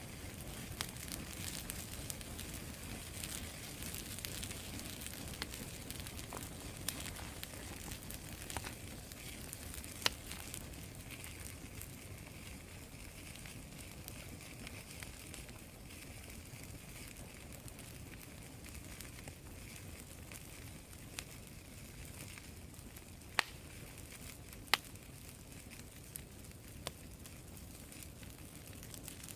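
Fire of freshly cut green wood set going with used motor oil, burning with a steady rush and crackle. It gives a few sharp pops now and then.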